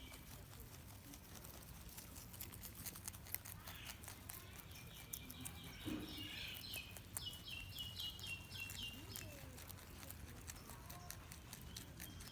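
Faint, irregular clicking and crunching of rabbits chewing their food. A bird calls a quick run of short, falling notes about six to nine seconds in.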